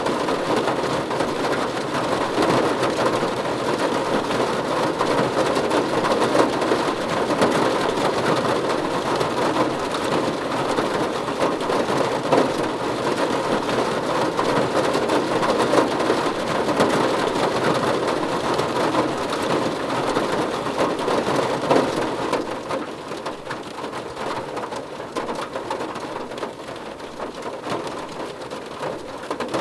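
Heavy rain falling steadily, a dense even hiss; it eases and gets noticeably quieter about two-thirds of the way through.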